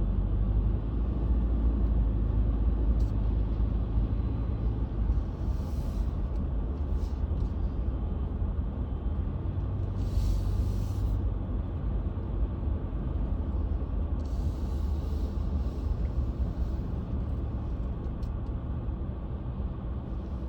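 Car driving on snowy roads, heard from inside: a steady low rumble of engine and tyres, with brief swells of hiss three times.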